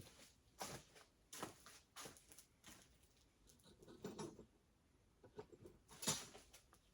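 Faint, irregular scuffs and light taps of someone moving about and handling things in a workshop, with a slightly louder knock about six seconds in.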